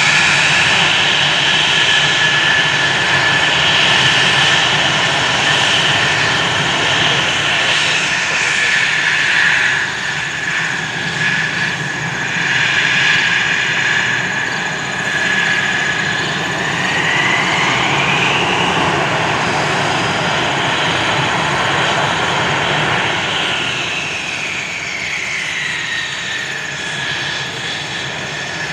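F-16 fighter jet engine running loud in flight. A high whine in it rises and falls several times, and the whole sound eases a little near the end.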